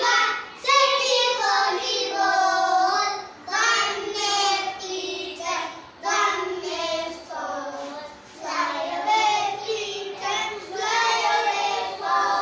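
Children singing a short rhyme in sing-song phrases, about six lines with brief pauses between them.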